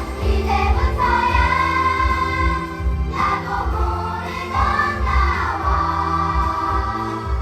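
A group of voices singing a musical number with accompaniment, long held notes that rise and fall over a steady bass.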